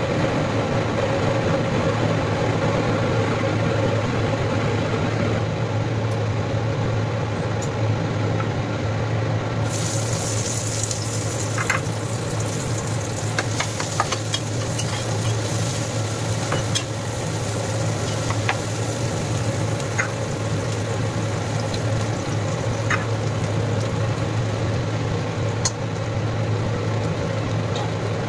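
Oil sizzling in a nonstick frying pan as sliced onions and green chillies fry, with a spatula clicking and scraping against the pan now and then. The sizzling starts about a third of the way in, over a steady low hum.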